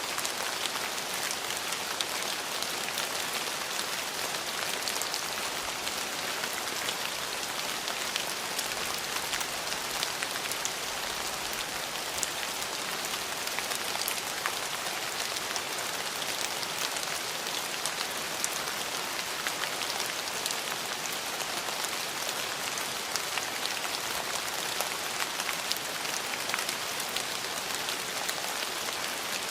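Steady rain falling, a dense even hiss peppered with the ticks of individual drops striking a surface.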